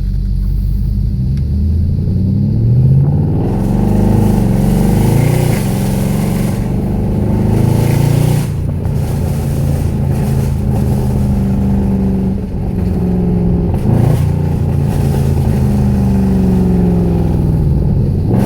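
Mercedes C63 AMG V8 with a straight-piped exhaust (catalytic converters and resonator removed, stock mufflers kept) revved again and again over a loud idle, its pitch climbing and falling with each rev.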